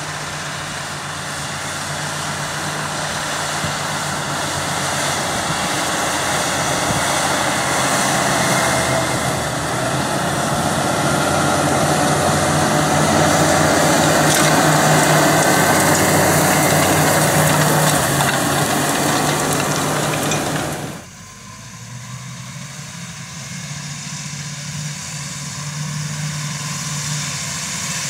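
John Deere 8400R tractor's diesel engine running steadily, with a dense rush of mechanical noise that slowly grows louder. About two-thirds of the way through the level drops suddenly, leaving a quieter, steady engine hum.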